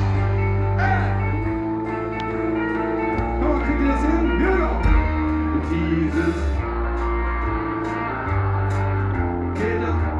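Live rock band playing a song: guitars over a steady bass line and drum hits, with some singing.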